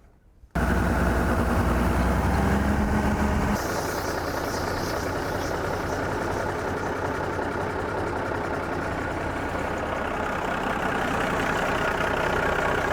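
1969 M818 military truck's Cummins six-cylinder diesel engine coming in suddenly about half a second in, running louder with a heavy low rumble for about three seconds, then settling to a steady idle. It is running again after its rust-clogged fuel filter was cleaned and the air bled from the fuel system.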